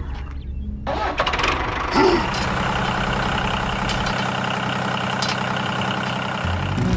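An engine starting about a second in, with a brief louder burst, then running steadily.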